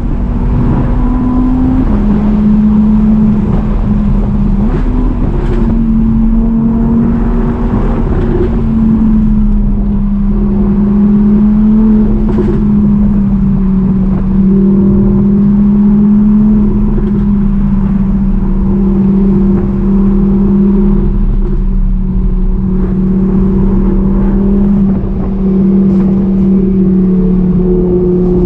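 Car engine droning steadily while driving at an even speed, its pitch stepping down about two seconds in and settling slightly lower later on.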